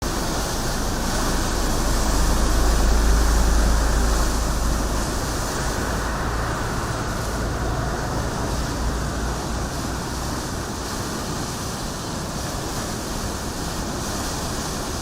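Rushing floodwater making a steady, loud noise, with wind buffeting the microphone as a low rumble that swells about two seconds in and eases after about four.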